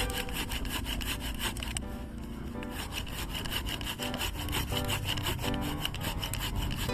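Small hand saw cutting through a wooden log, with repeated rasping back-and-forth strokes; the cut goes on quickly and evenly.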